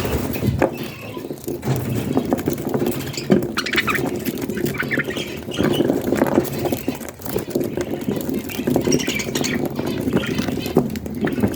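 Budgies chirping and chattering in short bursts, with small clicks and taps mixed in.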